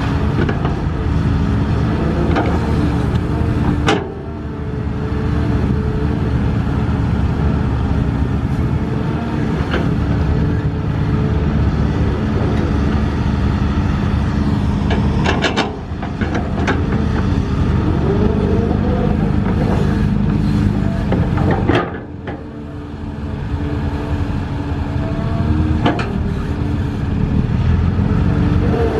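Heavy diesel engines of construction machinery running steadily, with their pitch rising and falling at times. The sound breaks off and changes abruptly three times.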